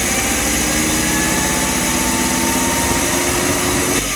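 Chevy 2.5-litre Iron Duke four-cylinder running fast and rough with its MAP sensor unplugged, its pitch slowly climbing as the idle races up. This is the runaway idle, which the owner suspects comes from a vacuum leak.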